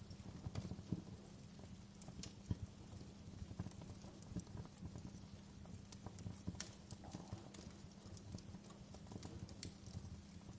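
Wood fire crackling, with irregular sharp pops and snaps over a steady low rumble; the strongest pops come about one and two and a half seconds in.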